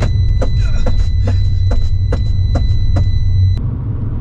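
Low steady rumble of the Abarth 595's 1.4 turbo engine and the road inside the car, with a regular ticking about twice a second. A steady high tone runs along with it and cuts off suddenly near the end.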